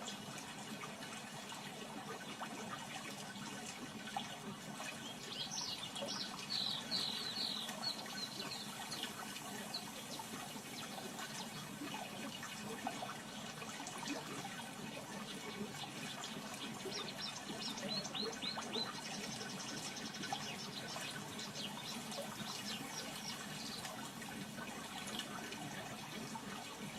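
Steady rush of running water, with two spells of short high chirps, about five seconds in and again near the two-thirds mark.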